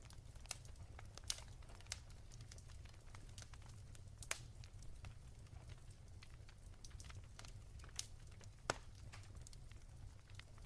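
Wood fire crackling softly in a fireplace: irregular sharp pops and snaps, a few noticeably louder than the rest, over a low steady rumble.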